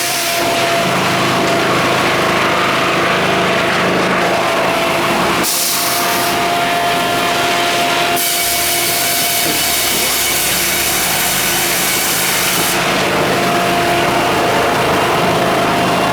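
Sawmill saw running and cutting timber to size. A continuous machine sound with a steady hum, whose higher hiss switches on and off several times as the cuts start and stop.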